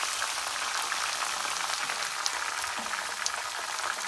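Chicken pieces frying in hot oil in a steel wok: a steady sizzle with scattered pops.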